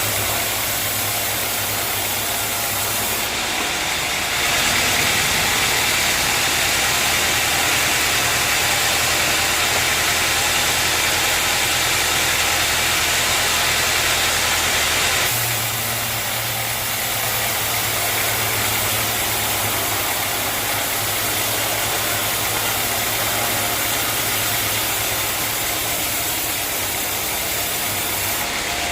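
Sawmill machinery running steadily: an engine hum under a broad noisy sawing sound, shifting abruptly about four seconds in and again about fifteen seconds in.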